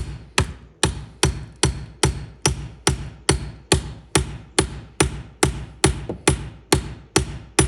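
Steady, rhythmic hammer blows, about two and a half strikes a second with a short ring after each, beating a seized boat steering cable to drive it out of the steering helm.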